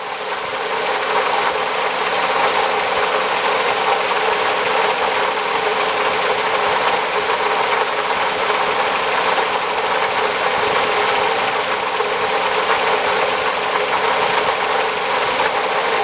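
Toyota Noah AZR60's engine running with a steady metallic rattle from a failing water pump, a noise at first taken for the alternator.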